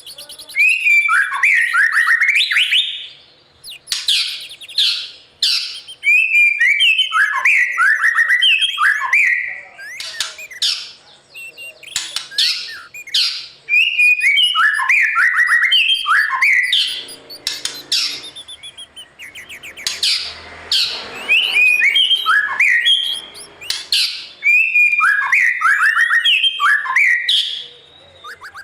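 White-rumped shama singing: a run of loud song phrases a few seconds long, full of sharp whistled notes and quick sliding figures, with short pauses between them.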